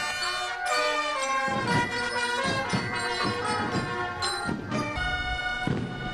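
Indonesian Naval Academy (TNI) marching band playing: a brass melody in changing notes over a steady drum beat.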